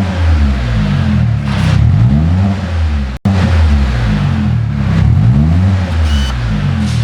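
Chevrolet Spark engine revving through a custom single low-noise exhaust, its pitch rising and falling over and over. The sound cuts out abruptly for an instant about three seconds in.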